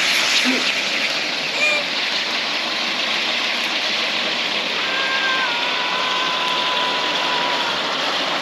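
A lit ground firework spraying sparks with a steady rushing hiss.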